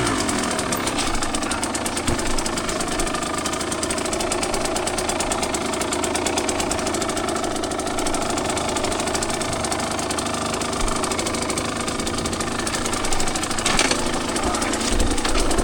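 Two-stroke dirt bike engine running at a fairly steady speed, with a brief sharp clatter near the end.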